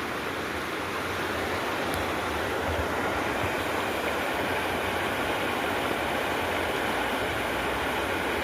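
Steady rushing of flowing water, like a river or stream running over rocks, as an even continuous noise.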